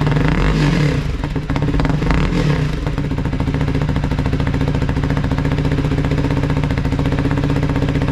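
A vehicle engine running loud at raised revs, its pitch wavering up and down in the first few seconds and then holding steady, until it cuts out at the end.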